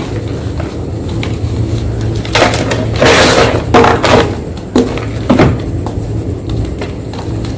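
Block of white gym chalk being crushed: light crackles, then a dense crumbling crunch a little over two seconds in that lasts about two seconds, followed by two short crunches. A steady low hum runs underneath.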